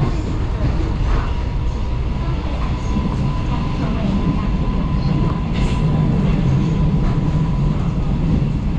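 Taiwan Railways local electric train running along the track: a steady low rumble of wheels and carriage, with a faint steady high whine from about a second in until near the end.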